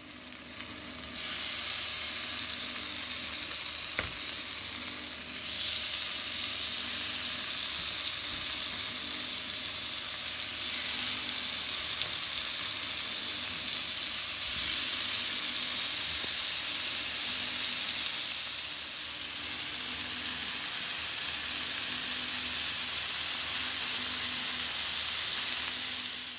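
Chicken and chorizo kebabs and sliced peppers sizzling steadily in a hot grill pan.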